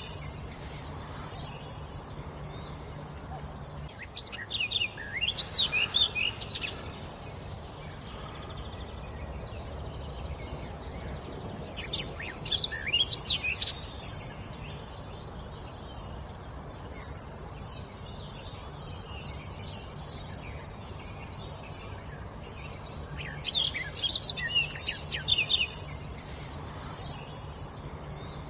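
A songbird singing three phrases of quick, high whistled notes, each lasting about two to three seconds, with pauses of several seconds between them. A steady background hiss and a low hum run beneath the song.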